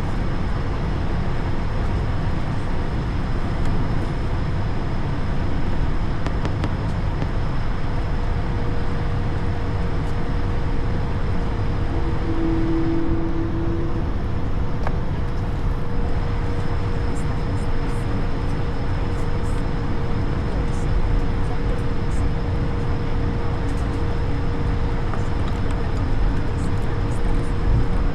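Airbus A220's Pratt & Whitney PW1500G geared turbofans running, heard from inside the aircraft as a steady loud rumble with a thin steady whine over it. A short, brief tone sounds about twelve seconds in.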